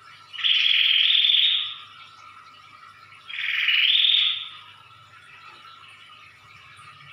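Prinia (prenjak) calling in two loud, rapid trilled bursts of well over a second each, the second about three seconds after the first, over a steady faint hum.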